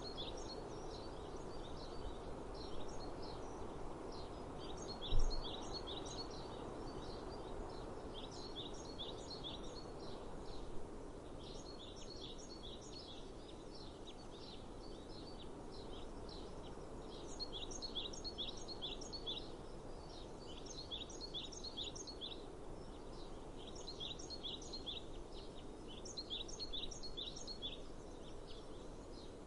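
Bird chirping in repeated bursts of quick high notes over steady outdoor ambient noise. One sharp low thump about five seconds in.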